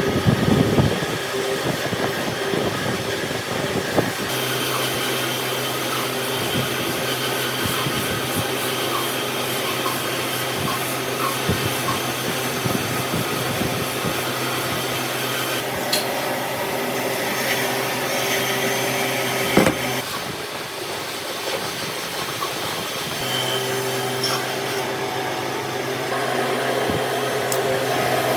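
An electric power tool's motor runs steadily with a constant hum. It cuts out about two-thirds of the way through and starts again a few seconds later, with a few sharp knocks along the way.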